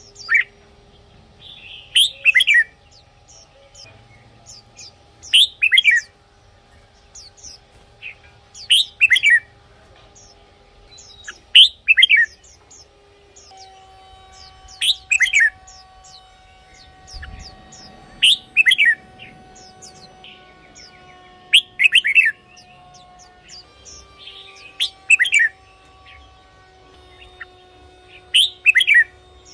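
Red-whiskered bulbul singing: about ten short, loud phrases of quick whistled notes, one every three seconds or so.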